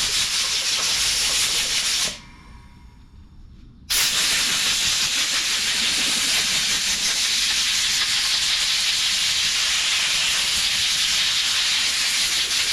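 Compressed-air blow gun blowing out a Honda HRR216 mower's air filter: a loud steady hiss that stops about two seconds in, then starts again about two seconds later and keeps going.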